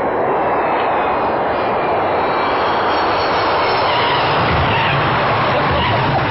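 Airplane engines running loud and steady, a dense rushing noise, with a deeper rumble growing stronger about four and a half seconds in.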